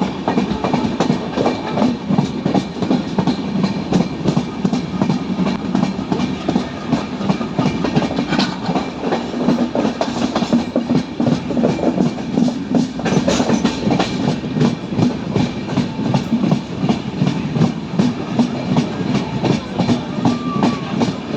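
Train hauled by an ALCO diesel locomotive, running with a loud, fast, even rhythmic clatter and chugging.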